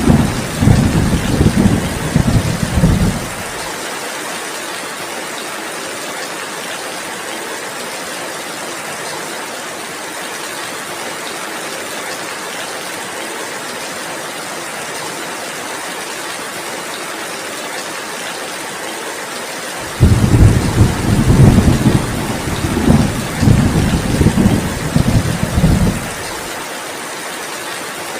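Heavy rain falling steadily, with rolling thunder rumbling for the first few seconds and again for about six seconds starting twenty seconds in.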